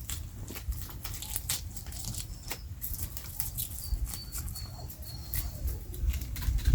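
Wood fire crackling, with irregular sharp snaps and pops over a low rumble; four short, high peeps sound in the middle.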